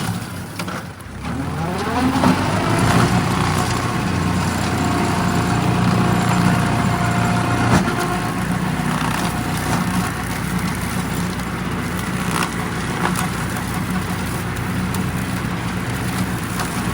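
Engine of a Kubota machine revving up about two seconds in, then running steadily at working speed.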